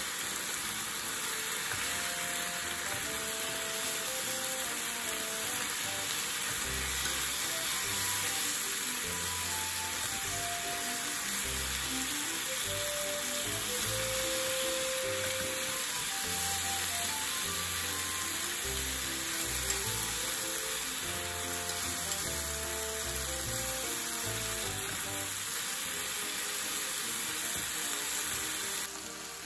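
Sliced pork and onion for ginger pork sizzling in a frying pan, a steady hiss of frying, with soft background music of short melodic notes and a bass line. The sizzle drops away just before the end.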